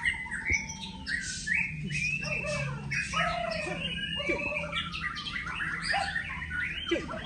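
Many songbirds singing and calling over one another in a dense chorus of overlapping whistles, trills and chirps.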